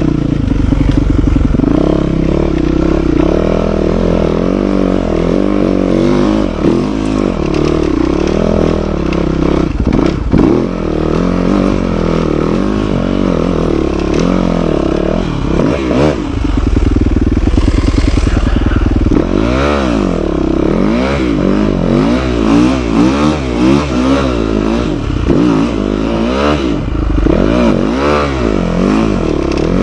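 Dirt bike engine being ridden hard, revving up and down over and over with its pitch rising and falling with the throttle.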